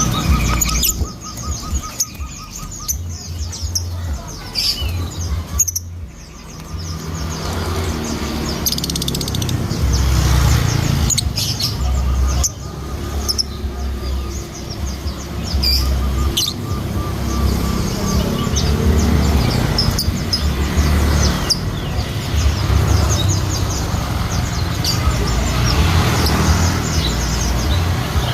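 Lovebird chirping: many quick, sharp, high-pitched chirps and tweets, some in short rapid runs.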